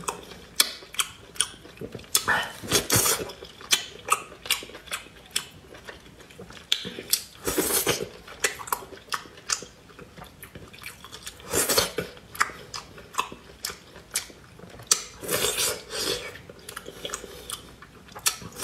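Close-up chewing and wet mouth sounds of a person eating oysters off a skewer and from the shell: many small smacks and clicks, with several louder bursts of slurping and smacking.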